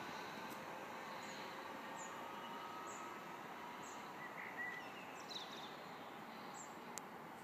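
A small bird chirping, short high calls repeating about once a second, over steady faint background noise.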